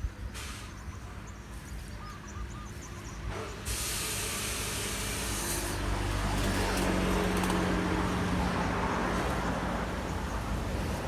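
A motor vehicle passing close by: a steady hiss of tyre and engine noise comes in sharply about three and a half seconds in and swells, over faint bird chirps at the start.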